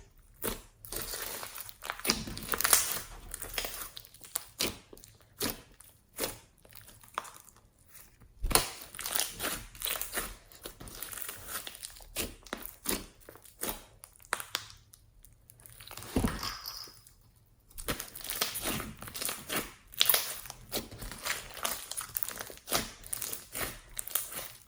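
Slime being squished, folded and stretched by hand, giving a run of irregular sticky clicks, pops and crackles.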